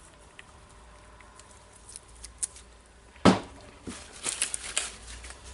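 Small metal parts of a rotary hammer's mechanism being handled and fitted by hand: light clicks, one sharp knock a little past the middle, then a quick run of clicks and taps.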